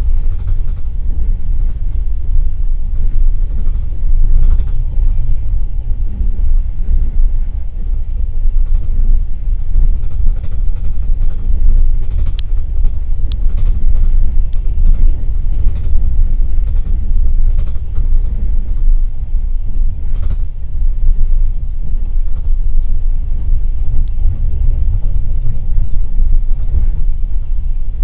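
Passenger train carriage running at speed, heard from inside at the window: a loud, steady low rumble of wheels on track with a few faint ticks.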